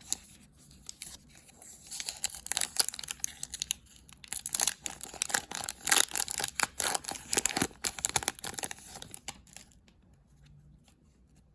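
An Upper Deck Series 2 hockey card pack's wrapper being torn open and crinkled: a dense run of crackling that starts about two seconds in and dies away near the end.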